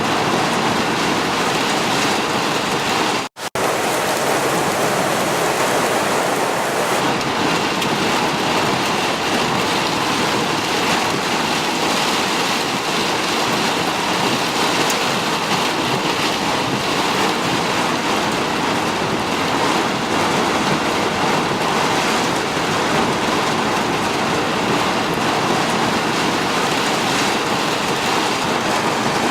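Heavy rain pouring down in a steady, dense hiss. There is a brief silent gap about three seconds in.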